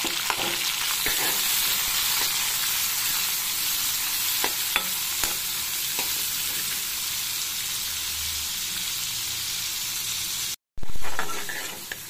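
Chopped tomatoes and shallots sizzling in hot sesame oil in a kadai, stirred with a steel ladle that clicks against the pan now and then. Near the end the sizzle cuts out for a moment, comes back louder and then fades.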